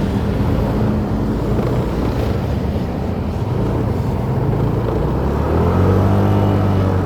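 Motorcycle engine running on the road with road and wind noise. The engine eases off in the middle, then picks up revs again about five and a half seconds in.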